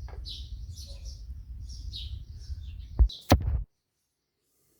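Small birds chirping repeatedly over a low rumble. About three seconds in come two sharp knocks a third of a second apart, then the sound cuts off to dead silence.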